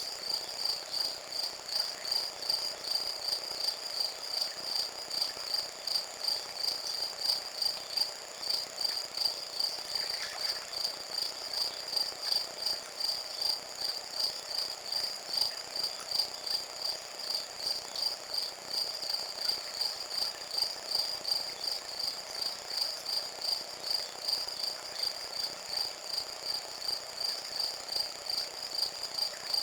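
Crickets chirping in a steady, high-pitched, pulsing chorus.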